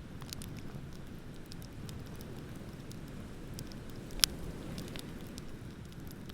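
Beach bonfire crackling: scattered small pops and snaps, with one sharp loud pop a little past four seconds in, over a steady low rumble.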